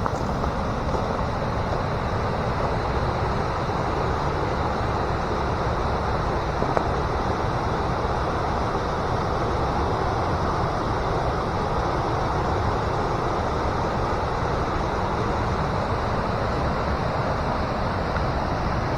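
Steady rushing of a stream's moving water, an even, unbroken noise with no distinct splashes.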